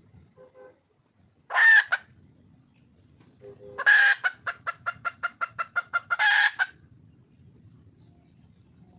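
Wild junglefowl hen calling: one loud call, then a couple of seconds later another loud call that breaks into a fast run of about a dozen clucks and ends in a last loud call. This is a hen calling for a mate.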